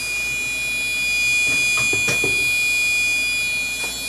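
High-pitched steady whine from a desktop PC, made of several pure tones, the strongest a piercing note near the top of the treble. Its source in the case is unknown; the owner suspects the dusty CPU cooler fan. A few faint knocks come through around the middle.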